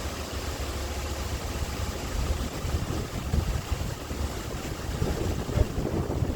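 Portable sawmill running, a steady engine drone with low wind rumble on the microphone.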